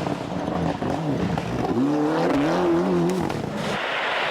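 Rally car engine revving hard: its pitch dips and climbs, rises about two seconds in, then wavers up and down on and off the throttle.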